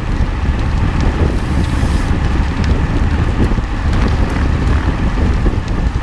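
Loud wind buffeting the microphone, a steady low rumble with a few faint clicks.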